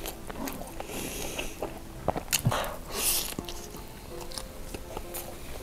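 Close-miked eating sounds: biting and chewing sausage and rice, with wet mouth clicks and a louder burst about three seconds in, over soft background music.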